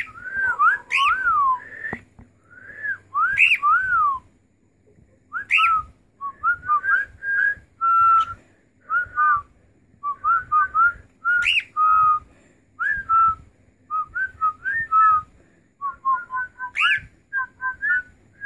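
Cockatiel whistling and warbling: a run of short whistled notes that glide up and down, some arching, with sharp clicks between them.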